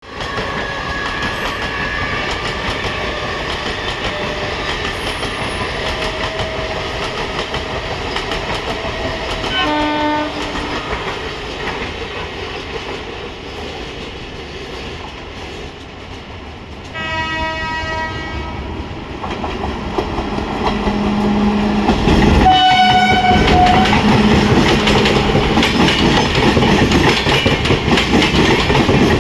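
Indian express train running through with its wheels clattering on the rails, and the locomotive horn sounded three times: a short blast about 10 seconds in, a longer one around 17 seconds, and another about 22 seconds in. The running noise grows louder in the last third as the train comes close.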